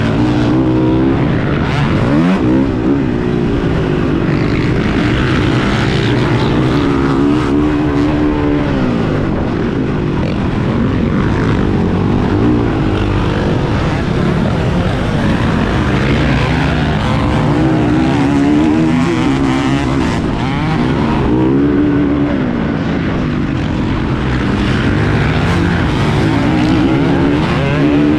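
Motocross dirt bike engines revving hard, their pitch climbing and falling again and again through the whole stretch.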